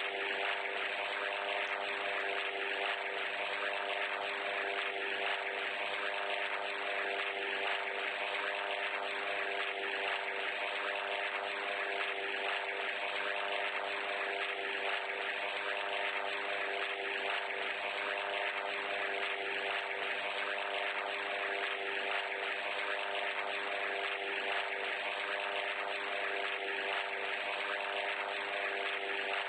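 A steady mechanical drone, an engine or motor running at constant speed: an even hum under a hiss, unchanging throughout.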